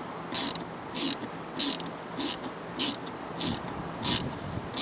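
Small quarter-inch-drive ratchet with a Torx bit turning a small screw. It gives a short burst of pawl clicks on each back-swing, about eight evenly spaced strokes, a little more than one every half second.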